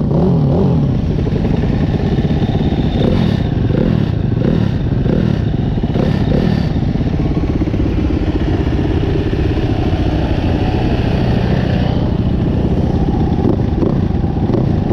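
Several four-stroke dirt bike engines running together at idle, still cold and warming up: a 2009 Yamaha YZ450F, a Husaberg FX450 and a Husqvarna FC 350. The engine pitch wavers slightly now and then.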